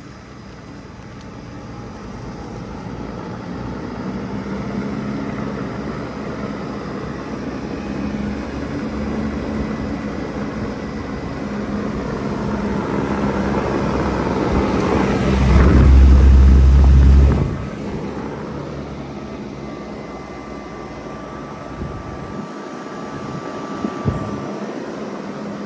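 Bard 3-ton wall-hung heat pump running through its defrost cycle. A steady machine hum builds over about fifteen seconds to a loud low whoosh that lasts about two seconds and cuts off sharply. It then settles to a steadier hum with a faint high whine and a small click near the end.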